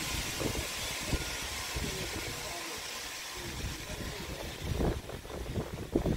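Vintage passenger train at close range: a steady hiss with scattered low knocks and clunks from the cars, and a louder clunk near the end.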